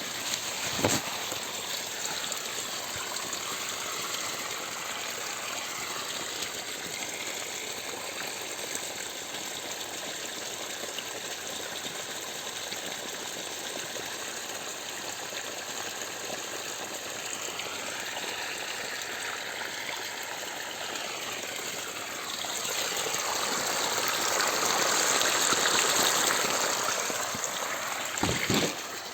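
Water gushing steadily, swelling louder for several seconds near the end.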